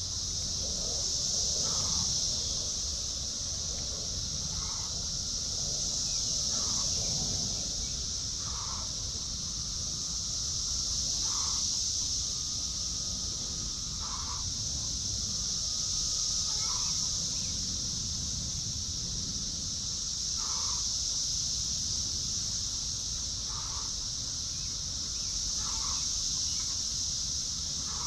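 Chickens giving short calls every two to three seconds over a steady, high-pitched insect drone that swells and fades slowly.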